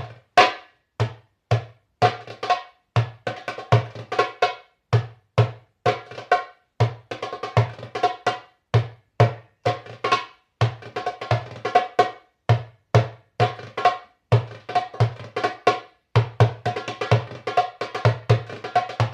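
Solo drumming: a steady rhythmic groove of deep bass strokes and higher ringing tone strokes with quick fills, pausing briefly about 16 seconds in.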